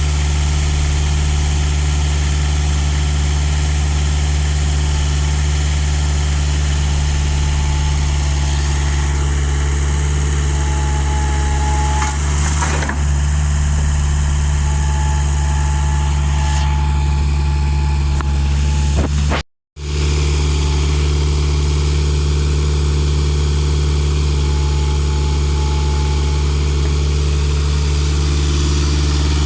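Engine idling steadily, with a momentary break in the sound about two-thirds of the way through.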